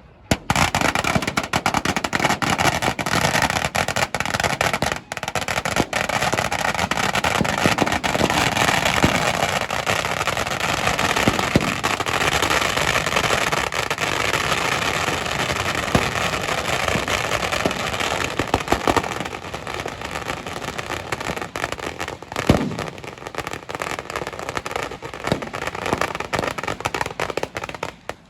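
Fireworks crackling and popping in a dense, continuous rattle of rapid small bangs, easing slightly in the last third and cutting off suddenly at the end.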